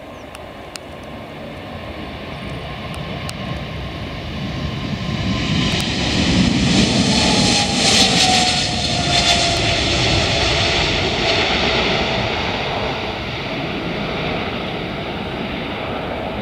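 Jet airliner taking off and passing overhead: the engine roar builds to a peak about seven to nine seconds in, with a whining tone that falls in pitch as it passes, then slowly fades.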